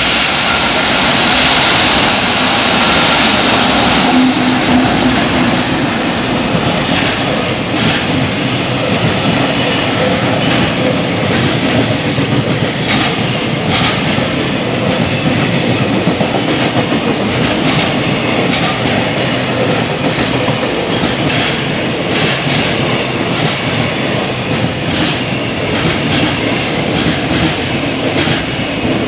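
JR Freight EF210 electric locomotive passing at speed with a loud rush for the first few seconds, then a long train of container wagons rolling by, wheels clattering over the rail joints in a quick, uneven rhythm.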